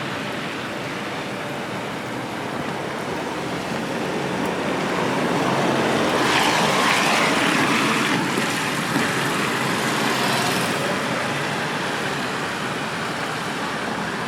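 Steady rain noise on a wet street, with a vehicle passing on the wet road: its tyre noise swells from about four seconds in and fades again after about ten seconds.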